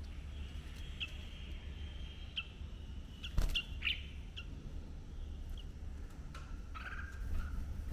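Birds giving short, sharp chirps every second or so over a low, steady background rumble, with a single sharp click in the middle.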